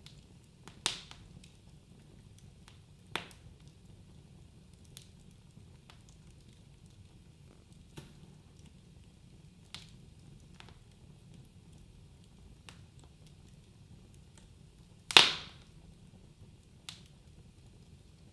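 Wood fire burning in a fireplace, crackling with sharp snaps and pops over a low steady rumble. Two strong pops come in the first few seconds, smaller ticks follow, and the loudest pop comes near the end.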